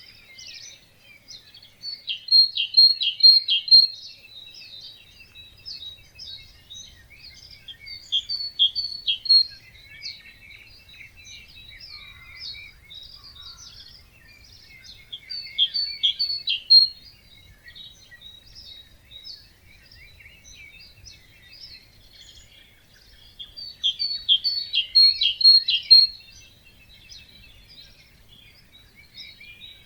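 Wild birds singing: a loud song phrase of quick, repeated notes comes back four times, about every seven seconds, over a steady background of quieter chirps and calls from other birds.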